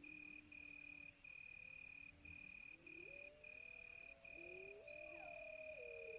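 Crickets trilling steadily at one high pitch, broken by brief gaps, with wolves howling faintly far off: one low howl, then from about three seconds in several long howls rising and overlapping.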